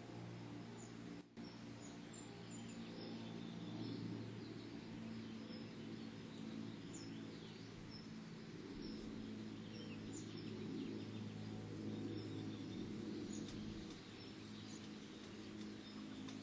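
Steady low hum and hiss from the nest-box microphone, with faint, short, high chirps of small birds calling outside the box throughout.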